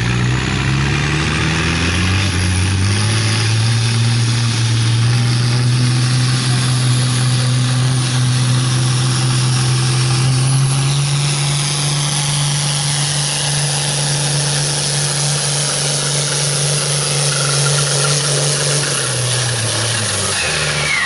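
Farm stock diesel tractor pulling a sled at full throttle. The engine's pitch climbs over the first few seconds, holds steady under load, and falls away near the end as the pull finishes.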